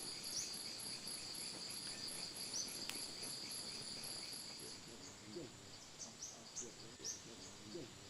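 An insect trilling steadily in a high, fast-pulsing buzz that stops about five seconds in. After it, faint short chirps and low calls are heard.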